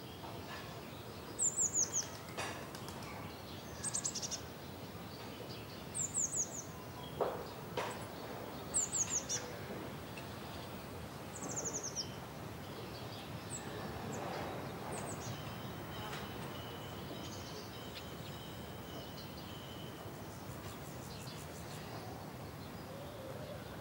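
Bird calling: short runs of three or four high, falling chirps about every two to three seconds, growing fainter about halfway through, over a steady outdoor background.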